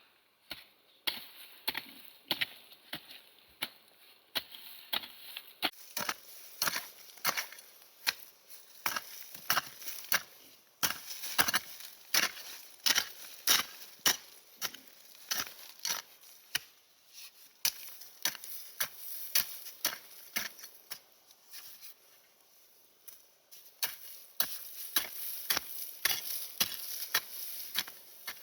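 Wood being chopped with a blade: a long series of sharp blows, about one or two a second, with a short pause near the end.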